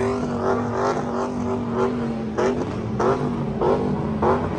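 A vehicle engine held at high revs with a steady pitch, with short sharp bursts on top every half second or so.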